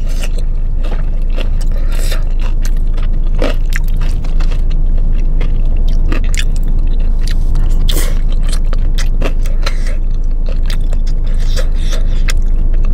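Close-miked chewing and biting of crispy fried chicken: wet mouth clicks and crackly crunches scattered throughout, over a steady low hum.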